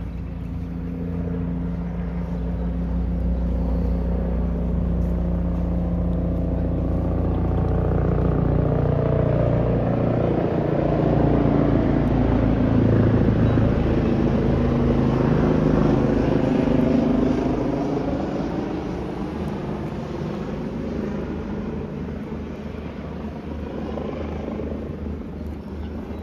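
Long Island Rail Road train passing: it grows louder, is loudest about two-thirds of the way through, then fades away.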